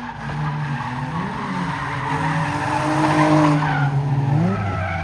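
Car engine revving while its tires screech through a spin in a car pit, the pitch of the engine rising and falling. The screech builds to its loudest about three seconds in.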